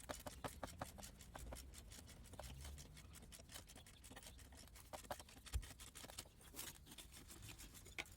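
Faint, quick scraping strokes of hand cleaning of the wheel-bearing seat in the steering knuckle, several a second at first and thinning out into scattered scratches.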